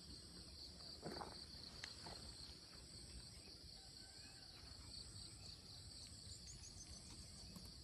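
Faint, steady high-pitched insect chorus droning without a break, with a soft brief rustle about a second in.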